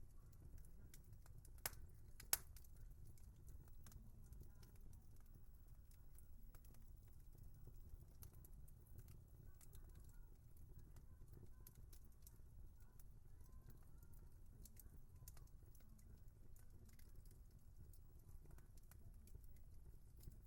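Wood fire crackling softly: sparse small snaps and ticks over a low, steady rumble, with two louder pops about two seconds in.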